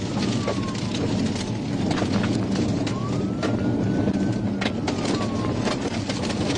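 Police car siren wailing in slow rises and falls, over the steady engine and road noise of a patrol car driving at high speed, heard from inside the car. Sharp clicks and ticks are scattered through it.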